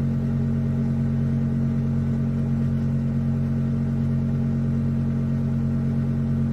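Electric meat grinder and chopper motor running steadily at a constant speed, a loud, even hum.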